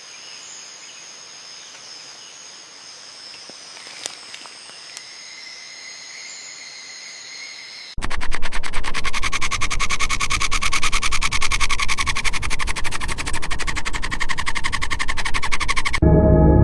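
Rainforest ambience: faint, steady high-pitched calls with a couple of small clicks, then about halfway through a much louder, fast-pulsing chorus of calling animals starts suddenly. Near the end it gives way to ambient music with steady ringing tones.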